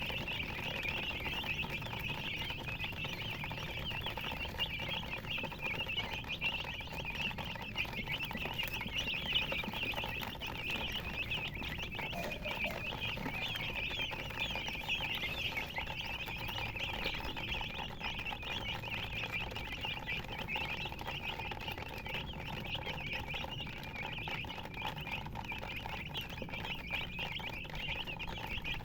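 A brood of baby chicks chirping continuously, many overlapping high peeps at once.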